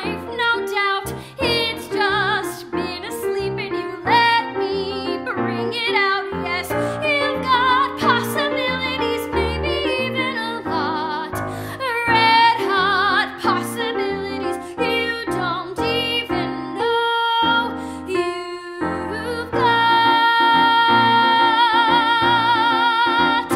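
A woman singing a show tune with strong vibrato over piano accompaniment, finishing on one long held note near the end.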